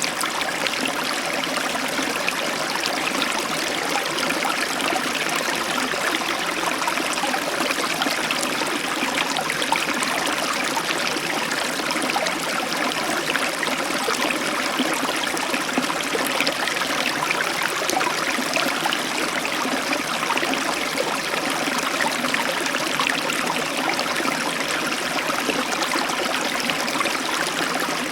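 Heavy tropical downpour falling steadily, a dense, even rush of raindrops with no thunder in this stretch.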